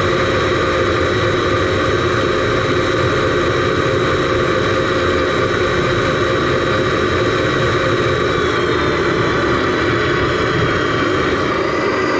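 Radio-controlled Mercedes Actros SLT model truck running, heard from inside its cab: a steady, loud mechanical hum and whine from its drive, with a few faint high tones starting to shift in pitch about two-thirds of the way through.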